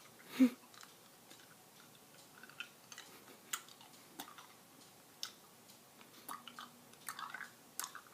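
Cat's mouth noises: faint wet clicks and smacks, like chewing or lip-smacking, scattered irregularly, after a short vocal cry about half a second in.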